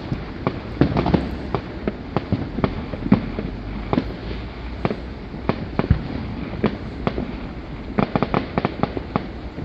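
Fireworks going off: a steady stream of bangs and cracks at uneven intervals, with a quick run of cracks about eight seconds in.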